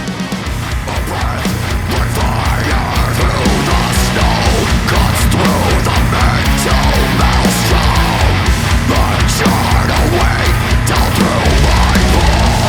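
Melodic death metal played by a full band: dense, fast drumming under a heavy low end, with a melody line gliding up and down above it. It swells in loudness over the first second or two, then stays loud.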